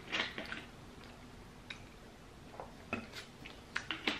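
Close-miked mouth sounds of eating: soft chewing with wet clicks and smacks of the lips and tongue. They come in a short cluster at the start and again near the end.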